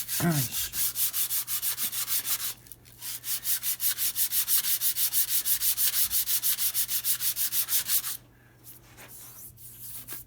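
Sandpaper rubbed quickly back and forth over the metal mating face of a brake lathe cutter head, about six hissing strokes a second, with a short pause between 2.5 and 3 seconds in and a stop about 8 seconds in. The sanding shows up and flattens the high spots on the face, which cause chatter when the cutter head does not sit flat.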